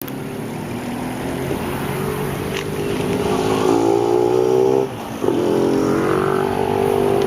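An engine running steadily, its pitch creeping up, then briefly dropping away about five seconds in before picking up again.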